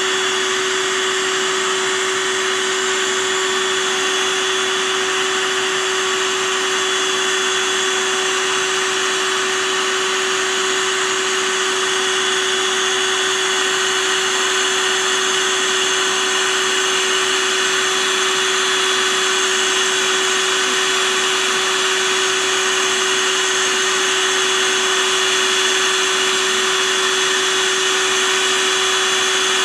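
A small motor running steadily with a constant whirring hum, unchanged throughout.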